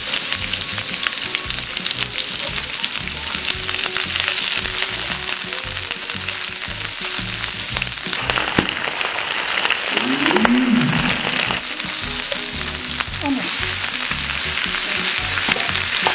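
Sliced onion, green onion and whole garlic cloves sizzling in hot oil in a frying pan while being stirred with a spatula, with many small clicks over the steady hiss. Sliced fish cakes go in later and keep sizzling.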